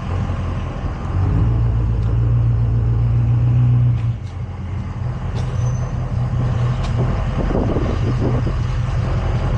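Tow truck engine running at idle. About a second in it steps up to a higher, steady speed, then drops back down near four seconds and keeps idling.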